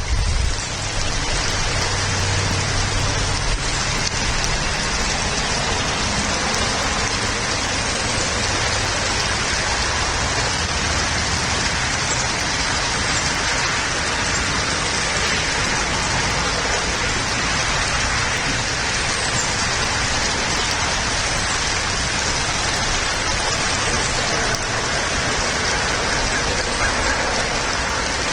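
Steady rain falling, an even hiss that holds at the same level throughout, with a low rumble in the first few seconds.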